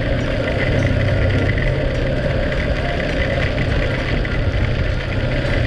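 A vehicle engine running steadily while travelling in the rain, with an even hiss of rainfall over it.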